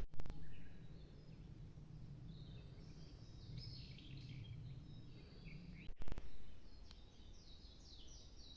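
Small birds chirping and singing, with many short high chirps that run into a quick trill near the end, over a steady low background rumble. There is a brief louder sound just after six seconds.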